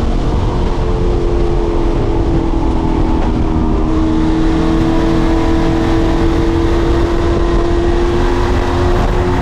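Racing truck's engine running hard and steady at speed, its pitch dipping slightly and then climbing gently.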